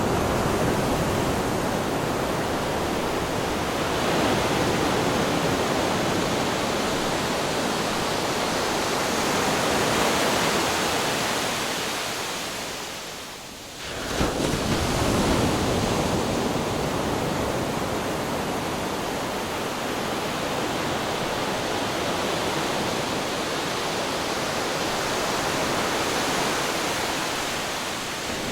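Ocean waves breaking on rocks, a continuous rush of surf. The rush fades a little just before halfway, then a new wave crashes and the sound builds again.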